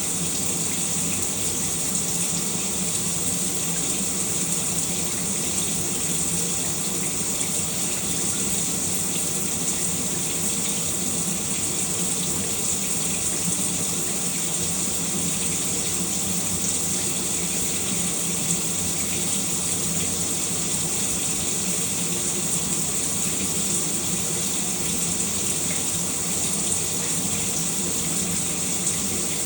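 Shower running steadily, a constant even hiss of falling water with no breaks or changes.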